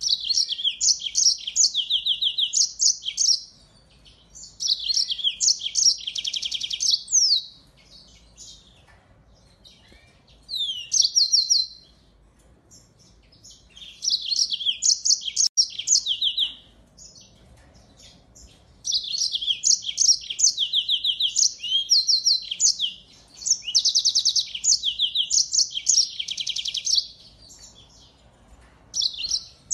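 Small seed-eating finch singing: phrases of fast, high twittering trills and chirps, each one to four seconds long, broken by short pauses.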